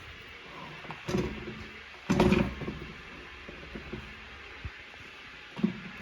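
A few knocks and clatters of things being handled or set down, over a steady hiss. The loudest cluster comes a little over two seconds in, with single knocks about a second in and near the end.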